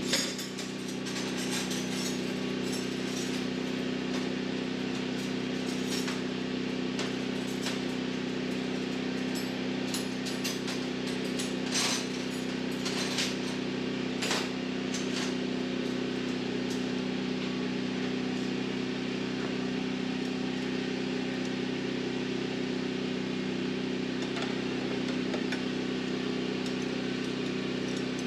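Scattered metal clinks and clicks from a wrench or socket being worked under the hood, over a steady low hum from a running motor.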